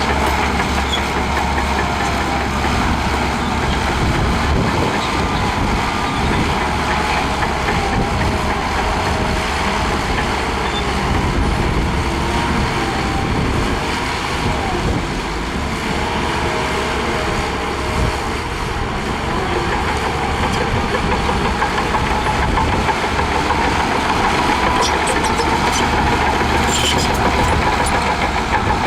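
Heavy diesel earthmoving machinery running steadily under load, with a constant mechanical drone and a faint whine, and a few light metallic clinks near the end.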